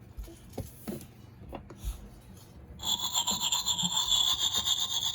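Sound book's small speaker playing a tooth-brushing sound effect: a steady, rapid scrubbing that starts about three seconds in, after a few soft clicks and taps.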